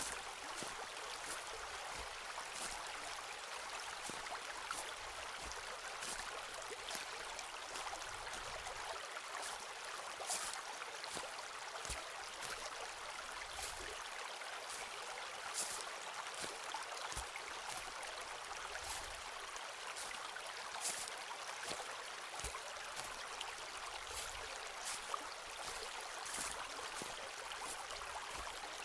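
Footsteps walking over a forest floor, each step a short crunch, about one a second, over a steady background hiss.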